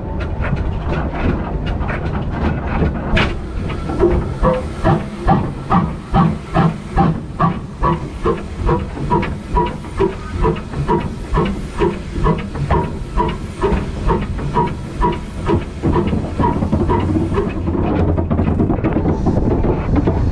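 Steam locomotive working slowly, a steady hiss of steam with, from about four seconds in, a run of rhythmic exhaust beats about two a second that give way to the hiss again near the end.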